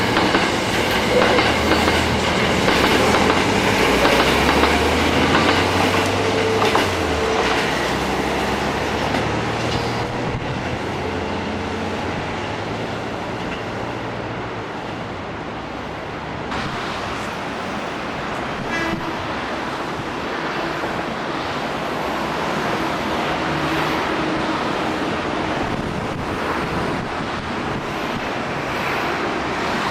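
Hankyu electric train running along the rails at a station, wheels clattering over the rail joints with a motor hum. It is louder in the first several seconds, eases off midway and builds again near the end.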